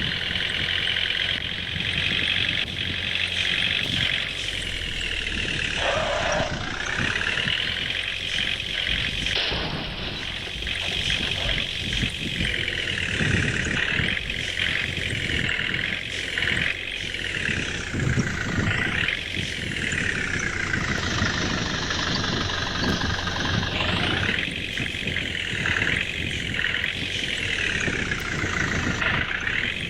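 Truck engine running, with a whine that rises and falls again and again as the engine is revved up and let back down.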